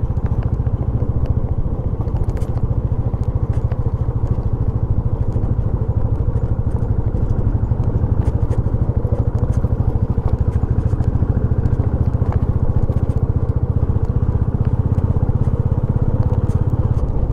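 Royal Enfield motorcycle engine running steadily under way, a continuous low drone with no pauses.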